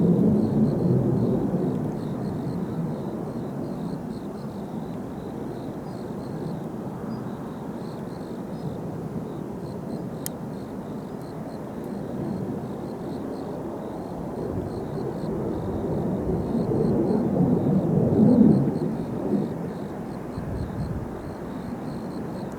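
Distant jet noise from Blue Impulse Kawasaki T-4 trainers flying their display: a deep rumble that is loudest at the start, fades, then swells again to a peak a few seconds before the end as the jets pass.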